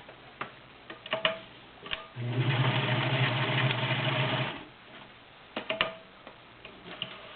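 Electro-Grand E-299 sewing machine stitching through five layers of denim, running steadily for about two seconds in the middle. Clicks and knocks from handling the machine and fabric come before and after the run.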